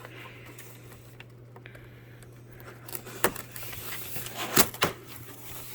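Cardboard box and packaging being handled: quiet at first, then from about halfway a series of sharp knocks and clicks with rustling. A steady low hum sits underneath.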